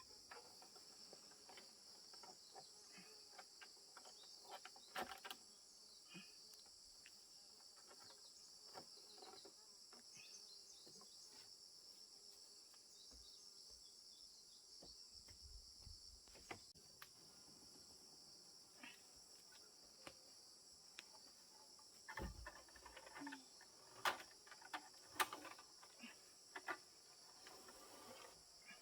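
Faint, steady chirring of crickets or other insects, with a few scattered knocks and taps in the last few seconds.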